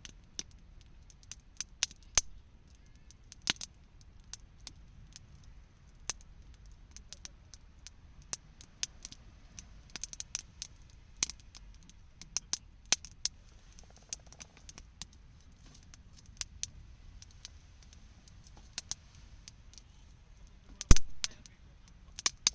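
Wood campfire crackling, with irregular sharp pops and one louder pop near the end.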